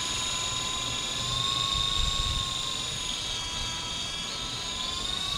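Electric motor and rotors of a small RC helicopter whining steadily in hover, the pitch dipping and rising slightly as it is corrected against gusts. Wind buffets the microphone with a low rumble.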